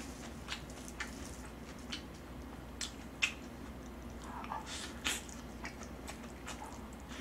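Close-miked eating sounds: a person chewing a spoonful of fried rice with wet mouth smacks and short clicks at irregular moments, a couple of them louder about three and five seconds in.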